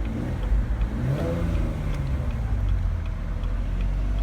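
2016 Camaro's 3.6-litre V6 idling, its engine note rising about a second in and then easing back down. The engine speed is fluctuating on its own after a light touch of the throttle, an abnormal revving fault the owner calls dangerous.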